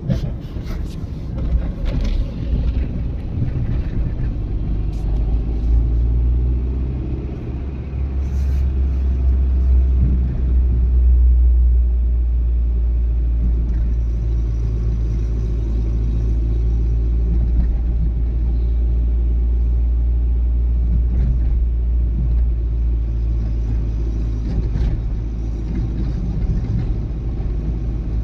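Old Renault Twingo on the move: steady low engine and road rumble, swelling for a few seconds around ten seconds in, with a few light clicks and knocks.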